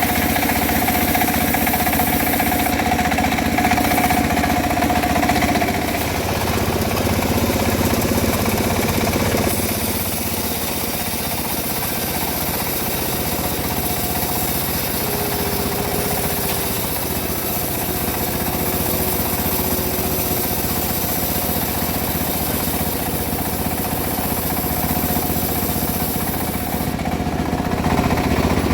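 Homemade engine-driven bandsaw mill running steadily while sawing teak logs, a constant mechanical drone with a steady hum. It gets somewhat quieter about a third of the way in and louder again near the end.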